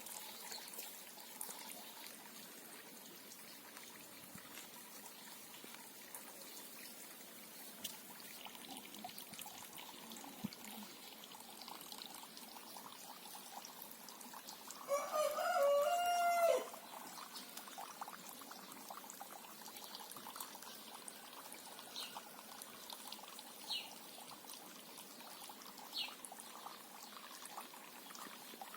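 Water trickling steadily, with a rooster crowing once, loudly, for about a second and a half midway through. A few short, high bird chirps come near the end.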